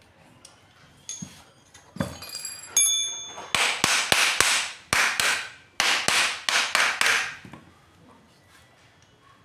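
A hammer striking metal repeatedly, about ten sharp blows in two runs with a short pause between them. A few lighter knocks with a brief metallic ring come just before the blows.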